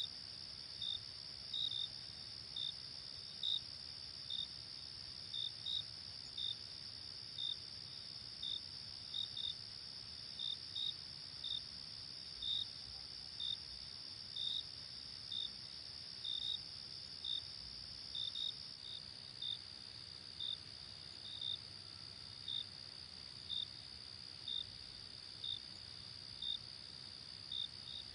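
Night insect chorus: a steady high-pitched trill with sharper, slightly lower chirps repeating about once or twice a second. The trill drops a little about two-thirds of the way through.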